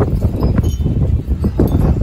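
Strong gusty wind buffeting the microphone in rising and falling surges, with wind chimes ringing faintly in short high notes.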